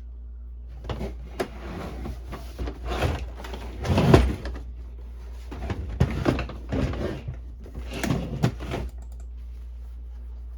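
Plastic parts of a Canon Pixma printer/scanner being handled and pried during teardown: irregular knocks, scrapes and rattles, the loudest clatter about four seconds in. A dehumidifier's steady low hum runs underneath.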